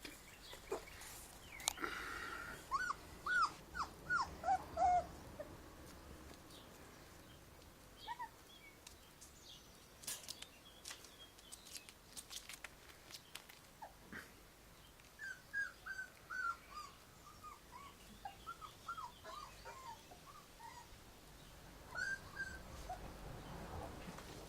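Young puppies whimpering in runs of short, high squeaks: one cluster a few seconds in, and a longer series past the middle, with faint clicks and shuffling between.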